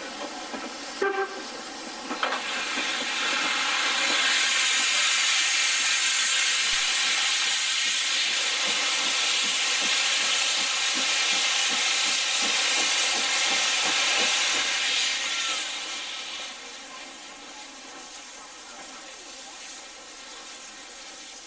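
Steam locomotive blowing off steam with a loud, steady hiss. The hiss builds about two seconds in and dies down about three-quarters of the way through, with a couple of short knocks near the start.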